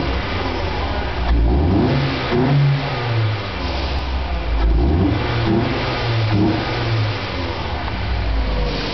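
Ford Escort GT's 16-valve four-cylinder engine, fitted with an aftermarket intake pipe, revved by hand a few times from idle, its pitch climbing and dropping back in quick blips around one to three seconds in and again around five to seven seconds in.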